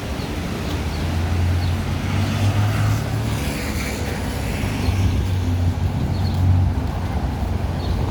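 Street traffic: a steady low rumble of vehicle engines, with a passing vehicle's higher sweeping sound a couple of seconds in.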